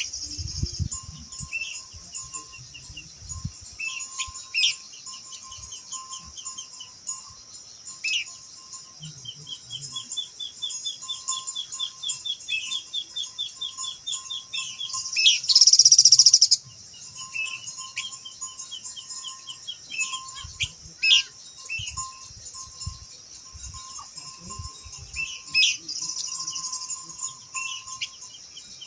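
Minla (khướu lùn) singing: fast chattering trills and short calls, including one long even trill of about five seconds, over a steady high hiss. A loud harsh burst cuts in about halfway through.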